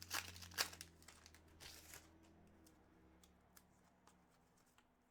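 Crinkling and rustling of trading card pack wrappers and cards being handled for about the first two seconds, then near quiet with a few faint clicks.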